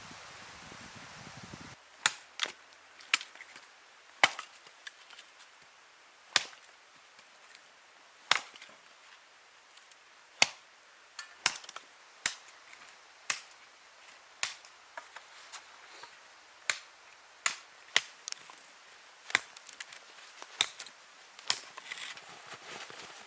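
Wood being chopped: about twenty sharp single strikes, roughly one a second at an uneven pace.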